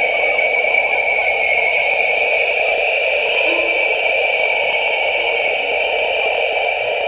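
Synthesized sonification of the James Webb Space Telescope's near-infrared image of the Southern Ring Nebula, with image colours turned into pitches: a steady, hissing electronic wash in two high bands, with a few faint, short low tones.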